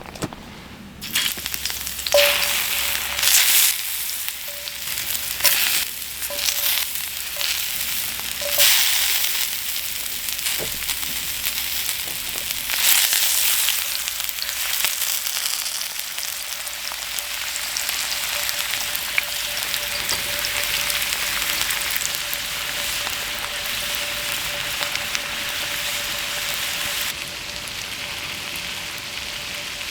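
Heavy rain falling in a steady hiss, starting suddenly about a second in, with several louder surges in the first ten seconds.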